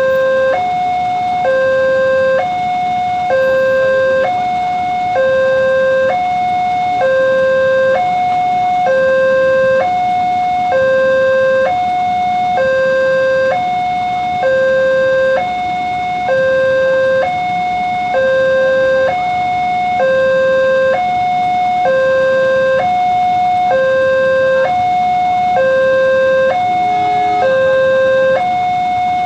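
Indonesian railway level-crossing warning alarm sounding a steady two-tone signal, alternating between a lower and a higher pitch about once a second, the warning that a train is approaching and the crossing is closed.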